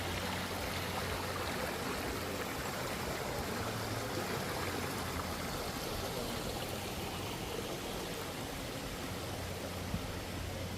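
Steady rushing of flowing water, like a stream, over a low steady hum.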